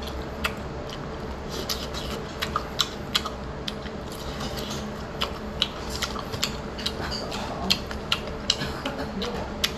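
Close-up eating sounds: chewing battered fried sweet-and-sour pork (tangsuyuk), with irregular sharp clicks and smacks over a steady low hum.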